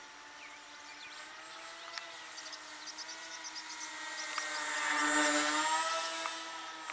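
Electric motor and propeller of a radio-controlled VTOL airplane whining steadily in forward flight. It grows louder to a peak about five seconds in as it passes close, its pitch dipping slightly as it goes by, then eases off.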